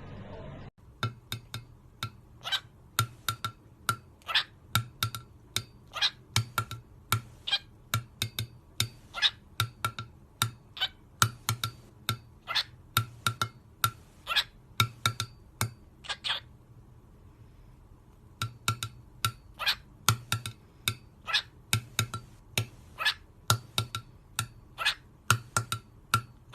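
A long series of short, sharp clicks or taps, about two to three a second, each with a faint ringing note. They stop for about two seconds a little past the middle, then carry on.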